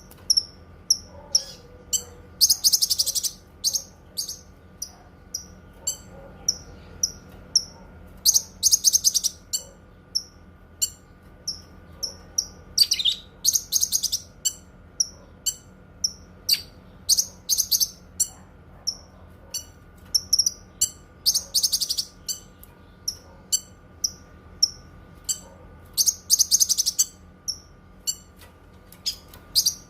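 Cucak kinoi songbird singing: a string of short, high chirps about twice a second, broken every five seconds or so by a fast, buzzy trill lasting about a second. A faint steady hum runs underneath.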